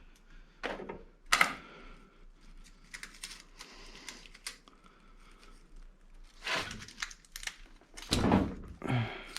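Irregular clicks, knocks and scrapes of hand work on a scrap electric motor being stripped for its copper, with louder knocks about a second and a half in and again just past eight seconds.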